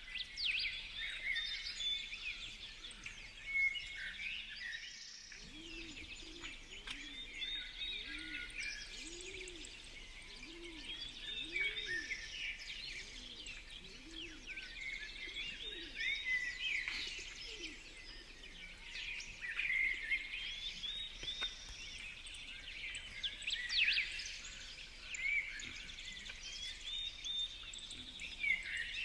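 Several small birds chirping and calling over one another in quick, overlapping bursts. A run of low, evenly repeated notes sounds underneath for several seconds, starting about five seconds in.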